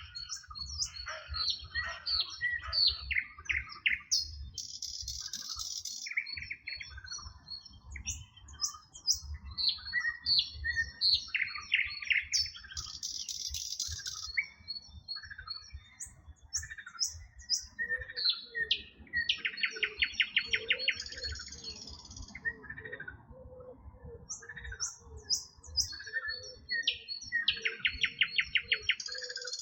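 A chorus of several songbirds chirping, whistling and trilling, with rapid buzzy trills that recur every few seconds. In the second half, a low call repeats steadily underneath, the croaking of frogs.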